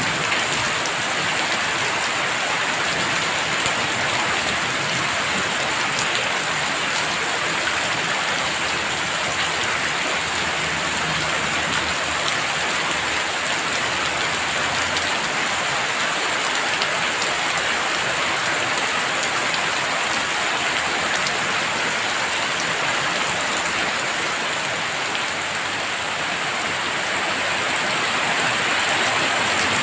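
Heavy rain falling steadily, a dense, even hiss of countless drops striking surfaces.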